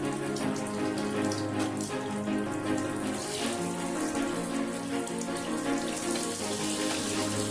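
Running water hissing steadily under background music of slow, sustained notes that shift in pitch every second or two.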